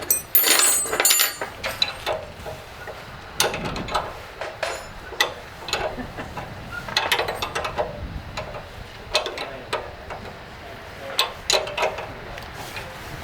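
Hand tools and metal parts clinking and knocking during workshop work on engine pipework: a quick cluster of clanks in the first second or so, then scattered taps every couple of seconds.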